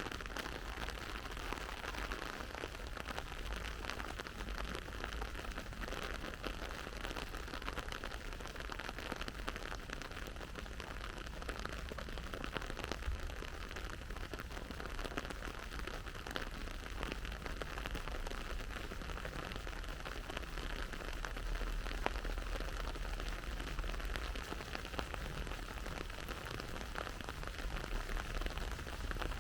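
Steady autumn rain pattering on surfaces as a dense, even patter of many small drops, with a low rumble underneath.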